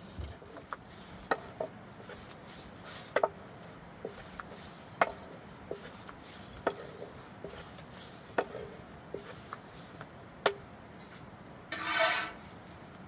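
Irregular light knocks and clicks, roughly one a second, over a faint steady background, with a brief louder rasping sound near the end.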